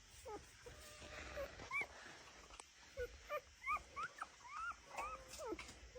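Newborn puppies whimpering: a string of short, faint, high squeaks that rise and fall in pitch.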